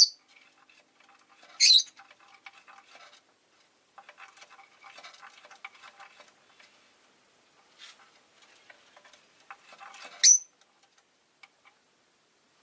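Rosy-faced lovebird giving three short, sharp, high-pitched chirps: one at the start, one just before two seconds in, and one about ten seconds in. Between them come soft, scratchy ticking and rustling sounds.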